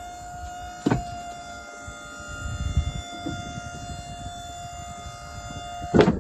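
Electric hydraulic pump motor of an aluminum box-truck liftgate whining steadily as the gate moves. There is a clunk about a second in, and another near the end as the motor cuts off.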